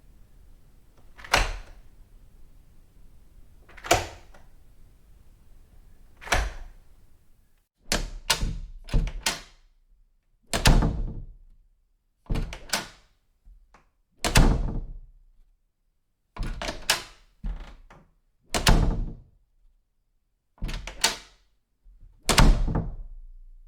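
A door pulled shut with a solid thunk three times, about two and a half seconds apart, over a faint hiss. Then a run of door opening-and-closing sounds: quick latch clicks, each followed by a heavier shut, about every two seconds.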